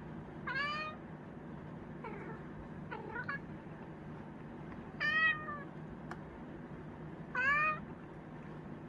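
Chinchilla cat meowing repeatedly: four short meows a couple of seconds apart, with a fainter one between the first two.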